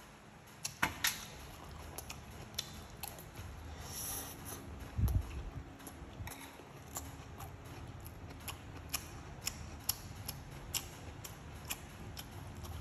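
Close-up chewing and lip smacks of a man eating rice, a run of short wet clicks, with a metal spoon scraping the ceramic plate as he scoops more food.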